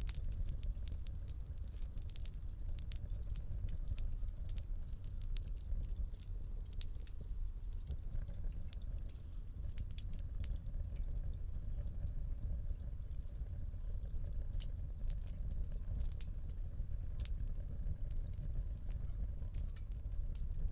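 Wood fire crackling in a fireplace: frequent small pops and snaps scattered irregularly over a steady low rumble of the burning logs.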